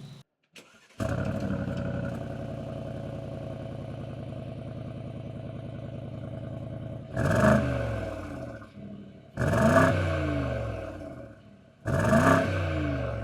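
Mercedes G63 AMG twin-turbo V8 through an Akrapovic exhaust, idling steadily. It is then blipped three times, about two seconds apart, each rev rising sharply and falling back toward idle.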